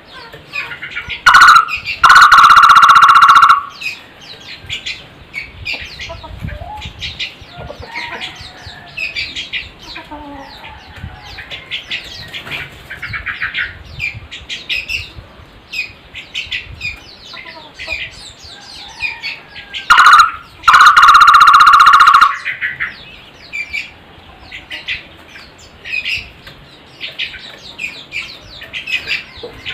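A takur barbet calling twice, about 18 s apart. Each call is a short note followed by a loud, even trill lasting about a second and a half. Smaller birds keep up quick, high chirping throughout.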